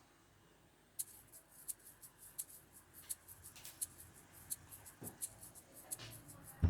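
Irregular run of sharp little clicks and snips from hand work on the hair dryer's plastic parts during the fan replacement, several a second, starting about a second in. Strummed acoustic guitar music cuts in at the very end.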